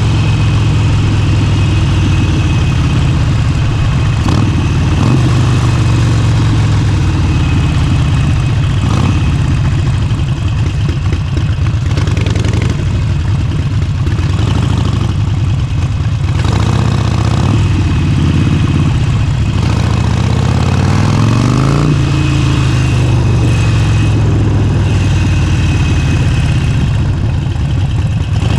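Motorcycle engine and exhaust running under way, the note shifting as the throttle changes. About three-quarters of the way through, the engine note climbs steadily as the bike accelerates, then levels off.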